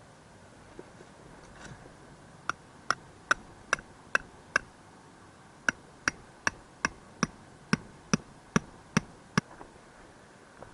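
A hammer driving a tent peg into the ground: two runs of quick, even strikes, six and then ten, about 0.4 s apart, with a short pause between them.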